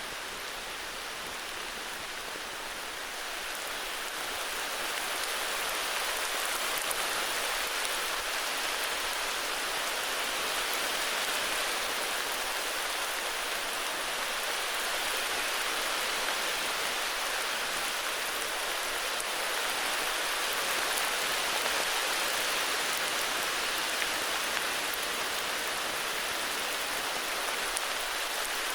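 Heavy rain falling steadily, an even hiss that swells a little louder a few seconds in and then holds.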